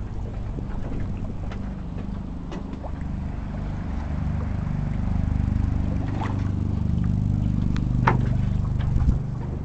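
A low, steady engine rumble that grows a little louder about halfway through, with a few faint clicks over it.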